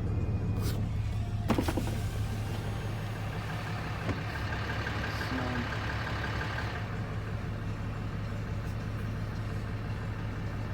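Truck engine idling, heard from inside the cab: a steady low hum, with a single sharp click about one and a half seconds in.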